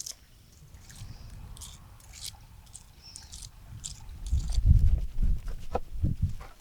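Biting and chewing crisp fried food, with short crunchy crackles. From about four seconds in, louder low thumps and rumbling take over.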